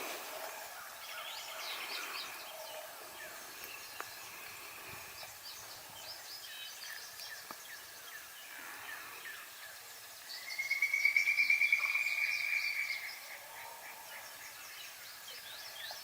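Springtime woodland birdsong: many songbirds chirping and whistling over a quiet background. About ten seconds in, a loud, rapid trill lasts nearly three seconds.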